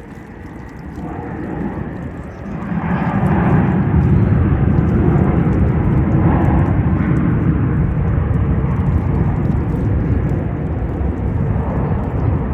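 Jet airliner passing close with a loud, deep engine roar. It swells over the first few seconds, holds steady, then drops off sharply at the end.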